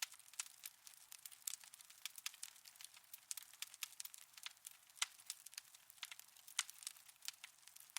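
Wood fire crackling in a fireplace: faint, irregular pops and snaps, several a second, over a soft hiss.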